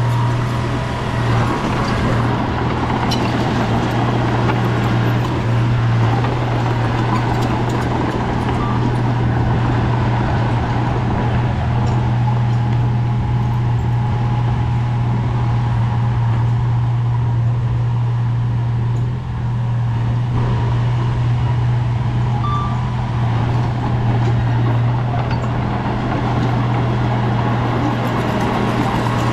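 Bulldozer diesel engine running steadily with an even, low drone.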